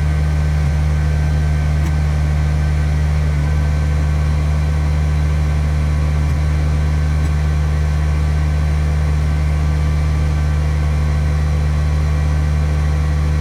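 Kubota BX23s tractor's three-cylinder diesel engine running at a steady speed, a constant low drone with no revving.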